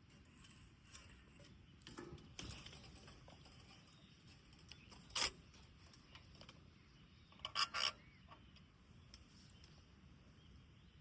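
Small wood campfire crackling quietly, with scattered faint ticks, a sharp pop about five seconds in and a quick cluster of pops near eight seconds.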